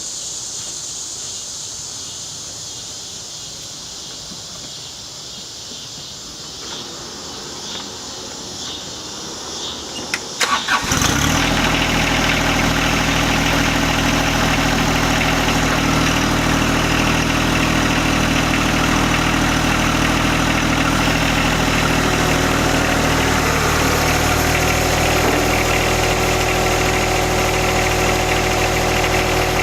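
Crickets chirping, then about ten seconds in a John Deere 1025R sub-compact tractor's three-cylinder diesel engine is cranked briefly and starts, settling into a steady idle.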